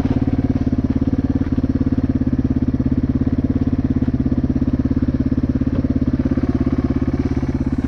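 450cc dirt bike engine idling steadily, a fast, even pulsing with no revving.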